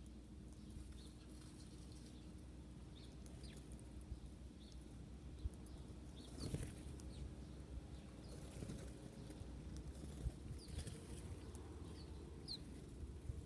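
Small birds giving scattered faint chirps, with a brief flutter of wings about halfway through and a couple of sharp knocks, over a steady low hum.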